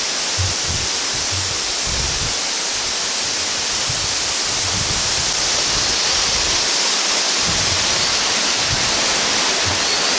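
Sapang Dalaga waterfall rushing: a loud, steady roar of falling water, with occasional low thumps underneath.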